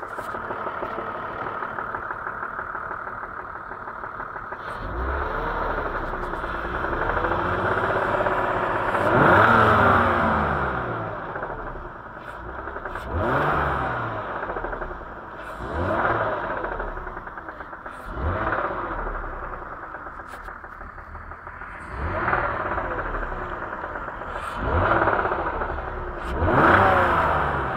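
BMW E39's M54 straight-six engine idling and being blipped about seven times, each rev rising and falling back, with sharp short knocks at the start of several blips. This is a knock that appears on revving, which the owner is demonstrating as a fault.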